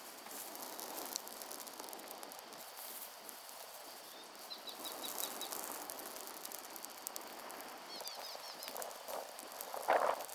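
Outdoor ambience with a small bird giving a quick series of short chirps twice, over a background of fine ticks and crackles, and one louder short knock near the end.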